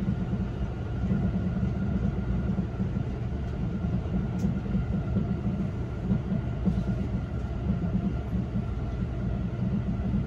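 An E257-series electric train running, heard from inside the passenger car: a steady low rumble with a faint, steady high tone over it.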